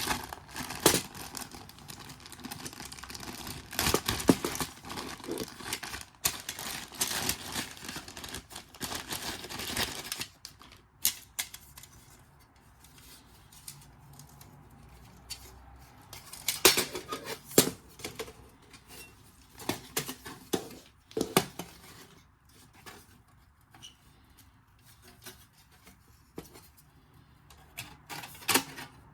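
Handling noises: about ten seconds of dense rustling and crinkling, then scattered clicks and light knocks with quiet gaps between them.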